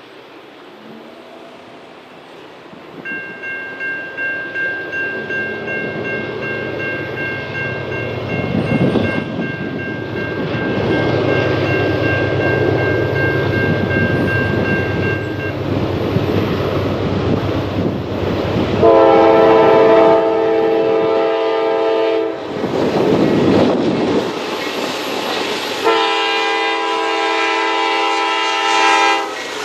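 Electronic grade-crossing bell starts dinging about three seconds in and stops abruptly about halfway through, while the rumble of an approaching diesel freight train grows. Near the end the locomotive's air horn sounds two long blasts, the loudest sound.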